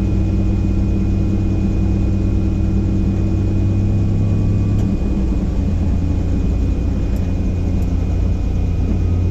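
Helicopter engine and rotor running steadily: a loud deep hum with a thin high whine over it. The low hum shifts slightly in pitch about five seconds in.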